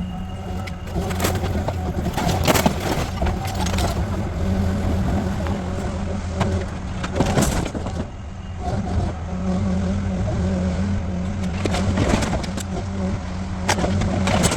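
A heavy demolition machine's engine runs steadily while a house is torn down, with repeated cracks and crashes of the structure breaking apart.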